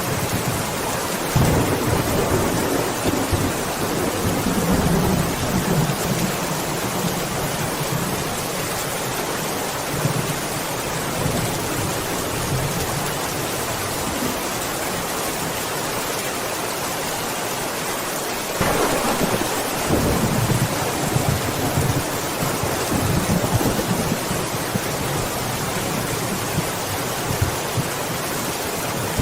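Steady heavy rain with thunder rumbling low in the background; about two-thirds of the way through a closer thunderclap breaks in suddenly and rolls on for several seconds.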